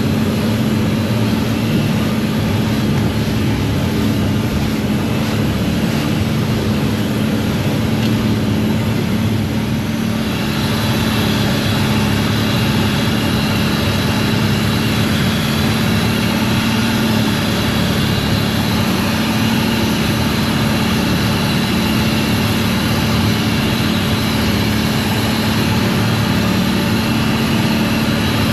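Long-tail boat's inboard engine running steadily, a loud low drone with a steady tone; a higher whine joins about ten seconds in.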